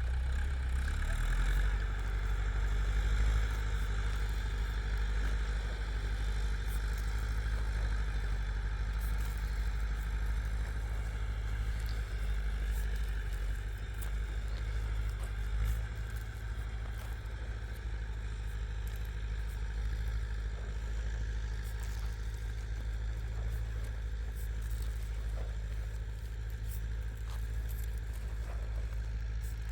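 Tractor engine running steadily: an even, low drone that holds without a break.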